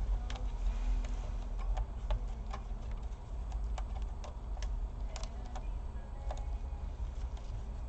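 Irregular light clicks and small metallic ticks of screws, a screwdriver and plastic laptop parts being handled during reassembly, some clicks ringing briefly, over a steady low hum.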